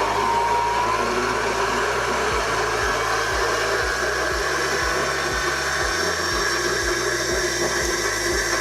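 Stand mixer running at maximum speed, its whisk beating eggs and sugar: a loud, steady motor whir.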